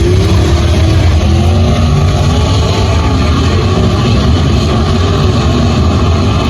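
Several race car engines running loud and steady, their pitches wavering up and down.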